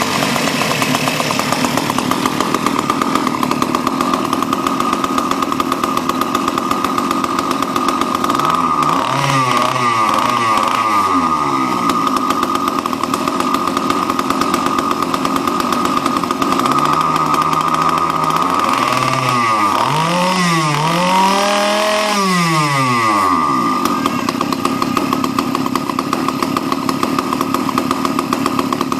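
Small two-stroke gasoline engine of an RC boat running continuously at a high, steady buzz. Around a third of the way in, and again past the middle for several seconds, the lower part of the sound wavers and sweeps up and down while the main engine pitch holds.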